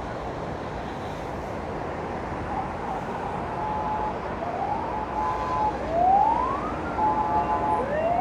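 Emergency vehicle siren sounding over street traffic noise, starting about two and a half seconds in: short held tones broken by repeated rising sweeps.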